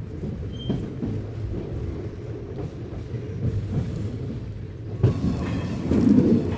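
Indian Railways express passenger train running: a steady low rumble of wheels on the track with scattered clatter, getting louder with a sharp knock about five seconds in.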